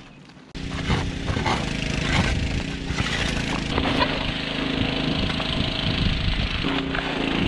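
An engine running steadily, cutting in suddenly about half a second in, its pitch shifting slightly a couple of times.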